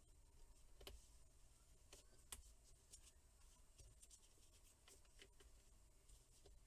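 Near silence: room tone with a low hum and a few faint, sharp clicks.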